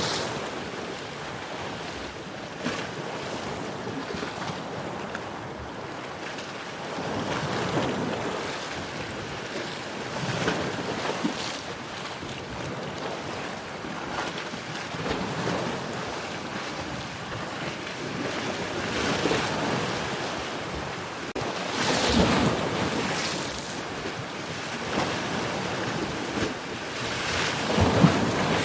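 Ocean waves washing and breaking in repeated surges every few seconds, the strongest two coming about two-thirds of the way through and near the end.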